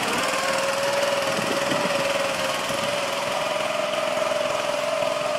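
Small 6.5 hp single-cylinder petrol engine (a Honda-clone) powering an old Farmall tractor, running steadily with an even hum that holds its pitch.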